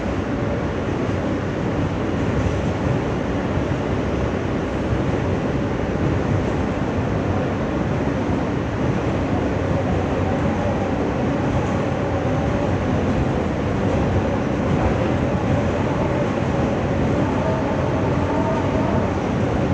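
R160 subway car heard from inside while running between stations, a steady rumble of wheels and car body. A faint whine comes in about halfway and rises slightly.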